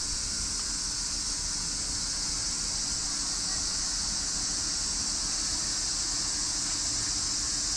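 Cicada chorus: a steady, high-pitched drone that holds unbroken at one level.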